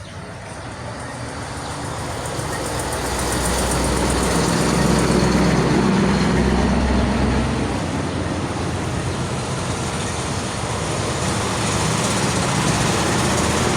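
Motor vehicle engine and road noise with a low rumble, growing louder about four seconds in and easing a little after.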